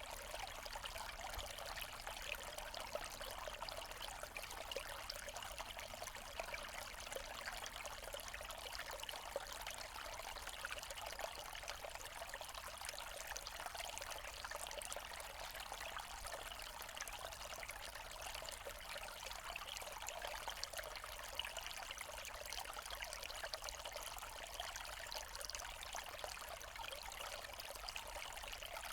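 Small forest stream running over stones, a steady trickling and splashing of water with no change throughout.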